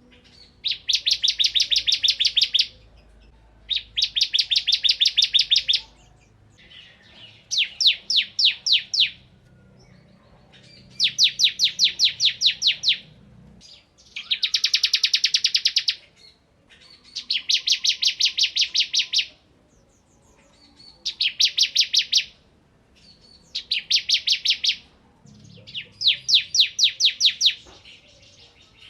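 Bar-winged prinia (ciblek) singing in its rapid, machine-gun-like 'ngebren' style: repeated bursts of sharp, quick notes, about eight a second, each burst lasting one to two seconds with short pauses between.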